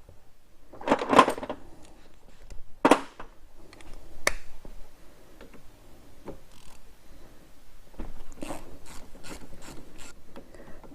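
Scattered clanks and scrapes of hand tools on metal brake parts, then a ratchet wrench clicking through a quick run of short strokes near the end.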